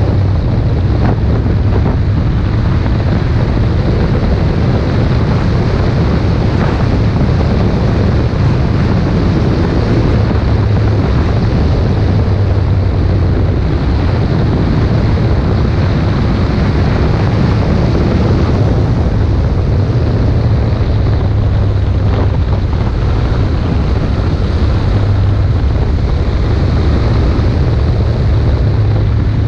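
Wind rushing over an action camera's microphone on a moving motorcycle, over the steady running of a Ducati Monster 1200's L-twin engine.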